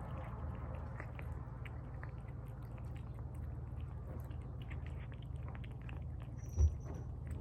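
Pets eating tuna from bowls, chewing and lapping with many small wet clicks, over a steady low hum. A single low thump with a brief high squeak comes near the end.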